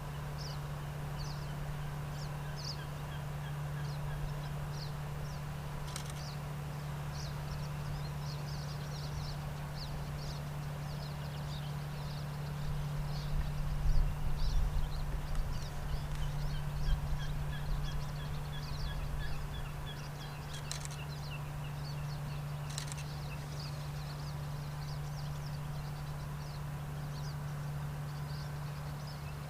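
Outdoor summer ambience: many short, high bird chirps over a steady low hum, with wind gusting on the microphone most strongly in the middle.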